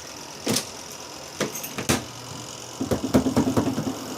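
Mini twin-tub washer's spin-dryer basket knocking: single sharp knocks, then a quick rattling run of knocks about three seconds in, over the steady hum of the machine. This is the sign of an unevenly loaded spin basket starting off unbalanced.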